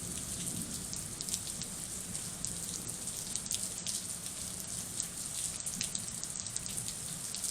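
Steady rain falling during a thunderstorm, with many small drop ticks over a continuous hiss.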